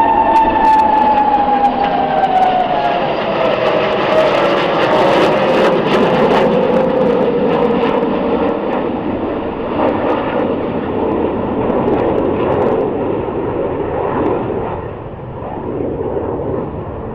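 Hongdu L-15E jet aircraft engines passing overhead in a flying display. Their whine falls steadily in pitch over the first several seconds as they go by, over a loud rushing jet noise with some crackle, which eases off slightly near the end.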